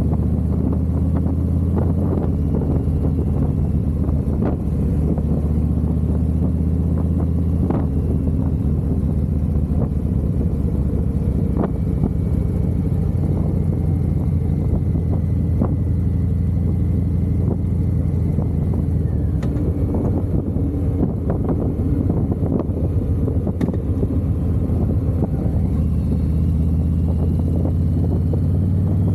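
Harley-Davidson V-twin motorcycle engine running steadily at cruising speed, a low, even rumble with no big revs.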